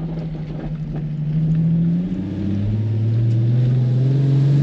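Nissan 350Z's 3.5-litre V6 engine running at moderate revs. Its pitch holds steady, drops about two seconds in, then slowly climbs again.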